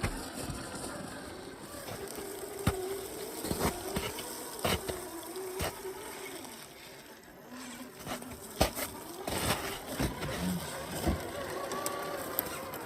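Radio-controlled scale Chevy truck's motor whining, its pitch rising and falling with the throttle, with several sharp knocks scattered through as it drives through water.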